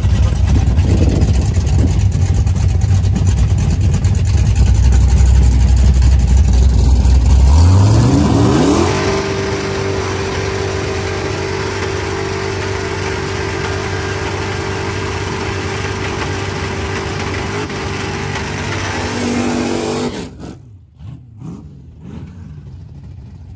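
Loud drag-racing car engine: a heavy low rumble, then revving sharply upward about eight seconds in and holding a steady high note. The note ends abruptly near the end, leaving fainter background sound.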